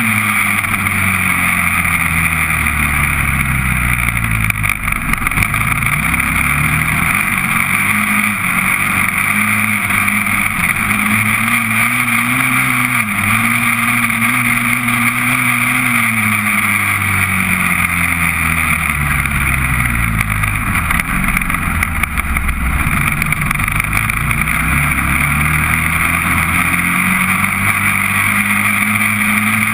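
Honda TRX400EX quad's single-cylinder four-stroke engine running hard, its revs falling and climbing again several times as the quad slows and accelerates.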